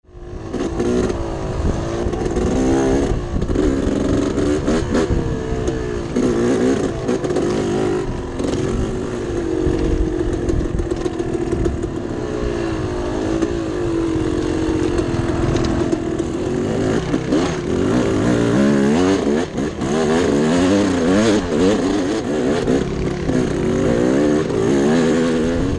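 Two-stroke dirt bike engine revving up and down as it is ridden, its pitch rising and falling with the throttle.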